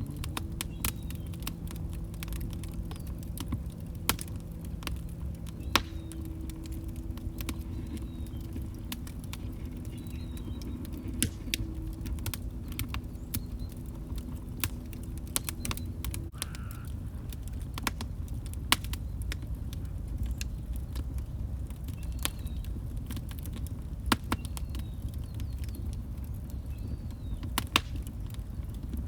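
Log fire crackling: irregular sharp pops and snaps over a steady low rumble of burning wood. A faint low hum stops about sixteen seconds in.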